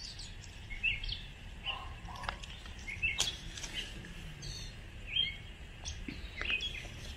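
Scattered short bird chirps, several a second at times, over a faint outdoor background. A few sharp clicks and rustles, the strongest about three seconds in, come from a hand working among strawberry plants and bird netting.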